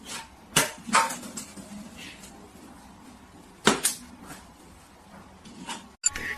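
Three sharp knocks over quiet room sound: one about half a second in, another about a second in, and a third a little past the middle.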